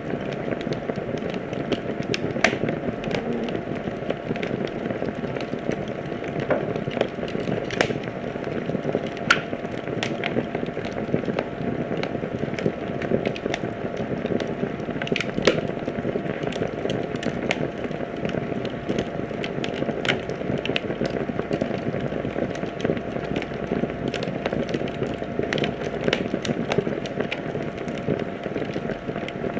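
Wood fire burning in a fireplace, with a steady low hiss of flames and frequent sharp crackles and pops at irregular intervals.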